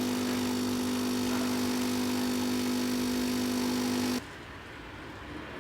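A steady mechanical hum with a constant low tone and hiss, like a small motor or appliance running, which cuts off abruptly about four seconds in, leaving faint background noise.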